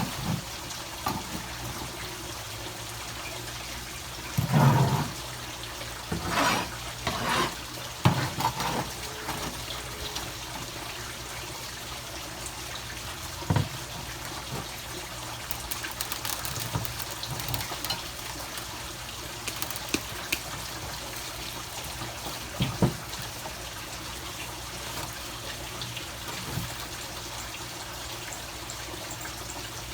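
Steady trickling water with several short bumps and rustles in the first ten seconds and two more, about 13 and 23 seconds in.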